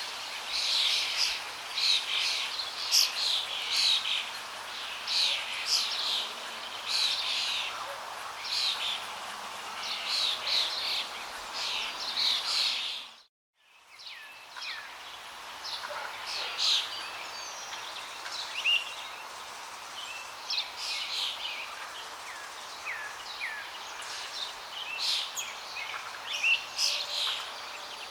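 Many small birds chirping and calling over a steady rush of flowing water. About 13 seconds in, the sound cuts out for a moment and returns, with fewer, more scattered calls afterwards.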